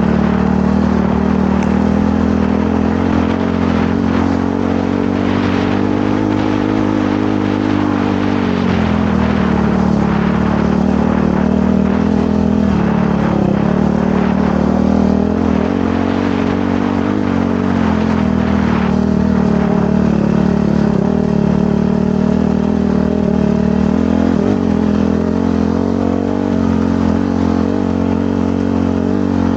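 Dirt bike engine running continuously at a steady, moderate throttle, its pitch dipping and rising a little several times as the rider eases off and picks up again.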